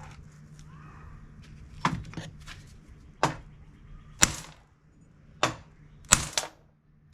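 Hammer blows driving a door hinge pin out of a 1970 Chevelle hinge set over a 1-1/4 inch impact socket: about six sharp strikes roughly a second apart, with a quick double strike near the end. A faint steady hum sits underneath for the first few seconds.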